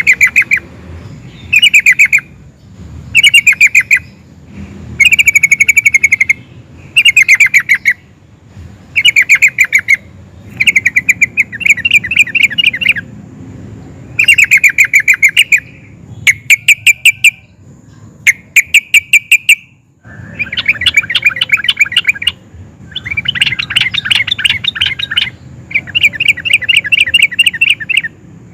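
Yellow-vented bulbul (trucukan) singing loudly in repeated bubbling, rattling phrases of fast notes, each a second or two long with short gaps between. Near the end the phrases run together into longer rolling bursts.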